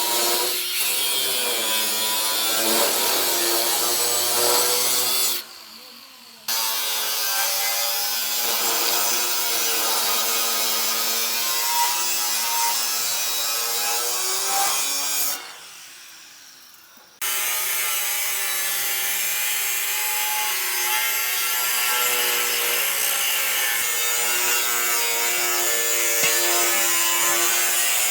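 A power tool cutting or grinding, running with a steady whine under load. It stops twice, about five and fifteen seconds in, winding down each time, then starts up again a second or two later.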